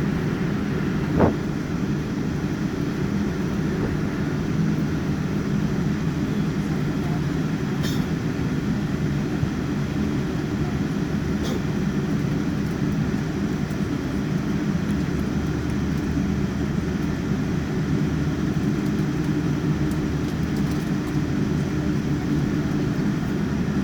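Steady rumbling cabin noise inside a Boeing 787-9 airliner, even and unchanging in level, with a single sharp thump about a second in.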